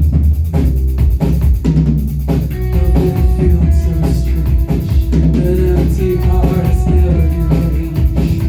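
Live rock band playing an instrumental passage: drum kit and heavy bass, with held higher notes coming in about two seconds in.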